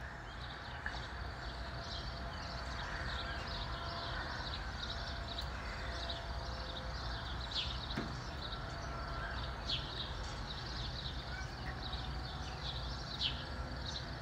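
Small birds chirping again and again in short high notes, some as quick falling strokes, over a steady low outdoor rumble.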